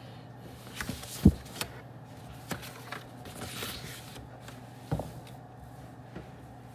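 Desk-handling noises while studying: a few sharp knocks and clicks of objects set down or moved, the loudest about a second in, and a brief rustle in the middle, over a steady low hum of room ambience.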